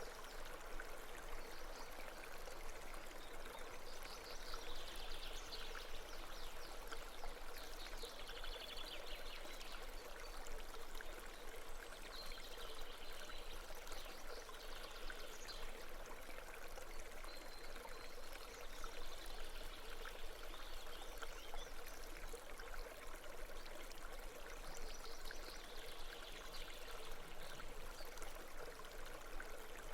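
A babbling brook: steady flowing water. Short, high trilling calls recur every few seconds over it.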